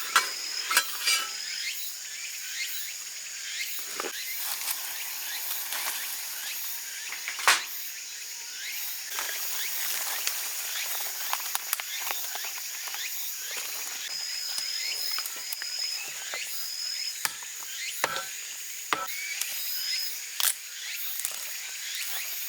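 Wood campfire crackling and popping, with a few louder snaps near the end, over a steady hiss of rain and a thin, steady insect tone.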